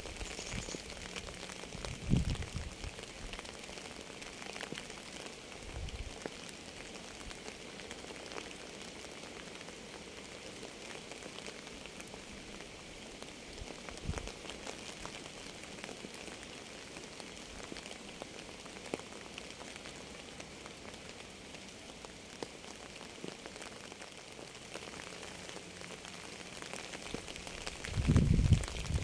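Steady rain falling on a surface: a dense patter of individual drops, with a few short low thuds, the loudest near the end.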